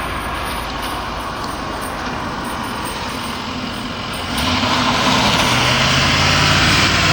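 Street traffic noise, then a heavy truck engine running steadily and growing louder about four seconds in.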